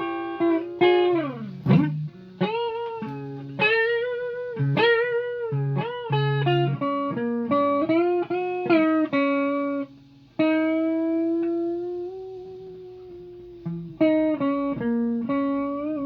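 Electric guitar playing single-note lead phrases, with string bends and vibrato, a quick slide down about a second in, and short pauses between phrases.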